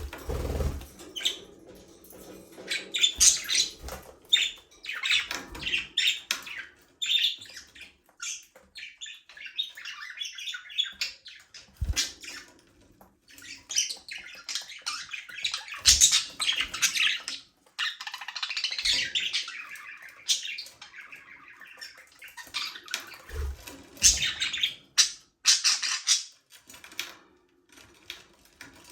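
A flock of budgerigars chirping and chattering in quick, irregular bursts, with a few short low thumps among them.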